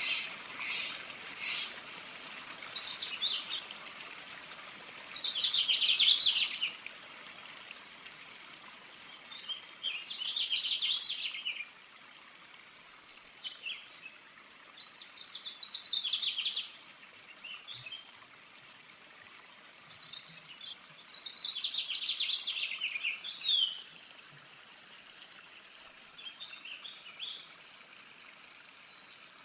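Birds singing: short chirped and trilled phrases every few seconds over a steady background hiss.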